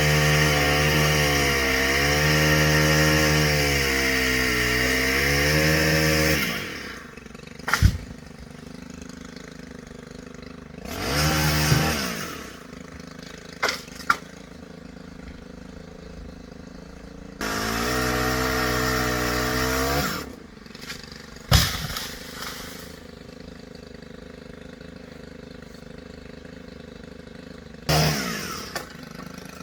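Chainsaw cutting under load for about the first six seconds, its pitch wavering, then dropping to idle. It is revved up twice more for a second or two and blipped once near the end, with a few sharp knocks in between.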